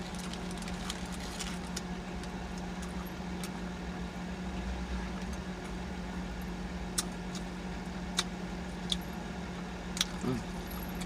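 Steady low hum of an idling car heard from inside the cabin, with a few sharp mouth clicks from chewing and smacking in the second half and a short hummed 'mm' about ten seconds in.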